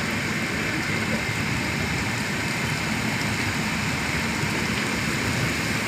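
Steady noise of a vehicle on the move, with rain falling.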